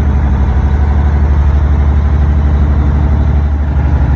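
Boat engine running steadily under way, a loud, deep drone with a fast, even pulse.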